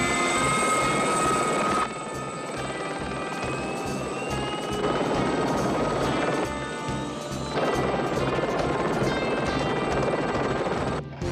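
Helicopter in flight, its rotor chopping steadily under turbine noise, with a film music score underneath. The loudness jumps up and down abruptly several times.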